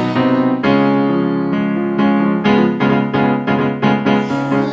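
Piano accompaniment playing a short instrumental passage of repeated struck chords, coming a little faster toward the end, with no singing.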